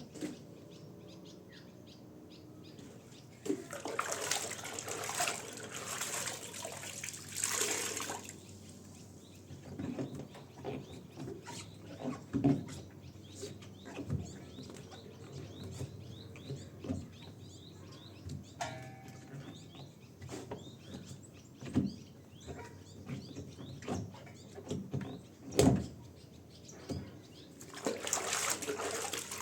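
Bursts of splashing, running water with scattered knocks and clatter of handling, while small birds chirp in the background.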